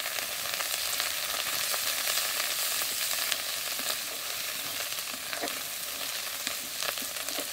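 Onion, ginger and garlic paste sizzling in hot oil in a kadai, stirred with a metal spatula. A steady frying hiss with a few light clicks of the spatula against the pan.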